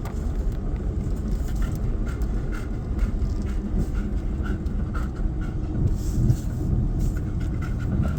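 Truck engine running at low speed, heard from inside the cab as a steady low rumble, with a few faint light ticks.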